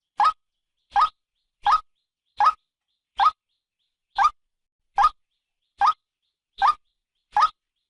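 Female white-breasted waterhen calling: a short upward-sweeping note repeated about every three-quarters of a second, ten times.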